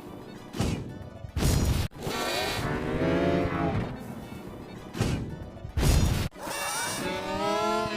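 Cartoon sound effects: short loud crashing impacts alternate with a long pitched call that rises and then falls, the call heard twice.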